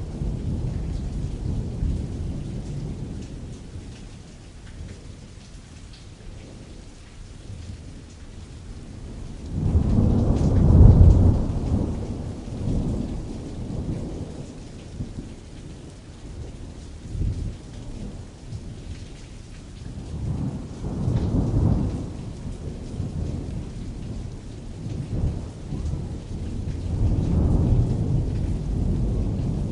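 Rain pattering steadily on tent canvas, with distant rolling thunder and soft reverb. The thunder swells and fades in low rumbles: the loudest about a third of the way in, more around two-thirds through and near the end.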